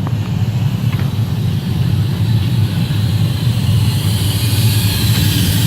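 Steam locomotive running into a station: a steady low rumble, with a hiss that grows louder over the last couple of seconds.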